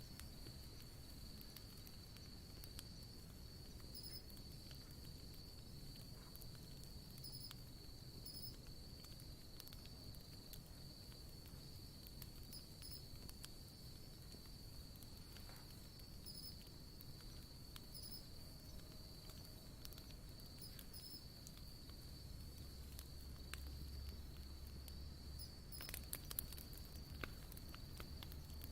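Wood campfire crackling softly with scattered small pops, a few louder cracks near the end, over a steady high-pitched trill of insects.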